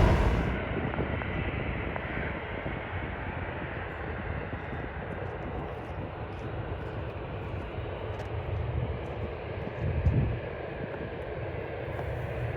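Jet aircraft engines running as a steady noise, with a brief low rumble about ten seconds in.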